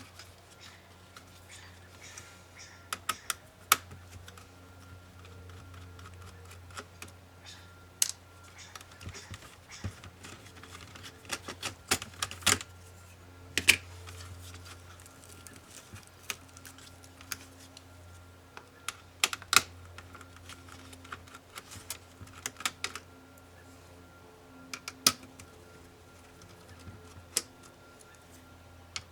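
Irregular clicks and taps of small tools and plastic parts of an HP ProBook 450 G5 laptop being handled during disassembly, a few of them sharper, over a low steady hum.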